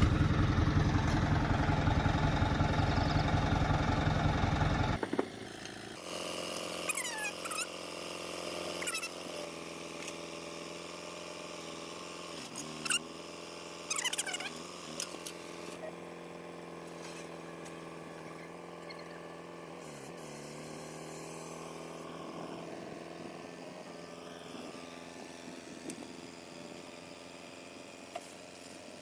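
An engine running close by, loud for about five seconds and then cutting off abruptly, followed by a quieter steady engine hum that dips in pitch now and then, with a few brief high falling squeaks.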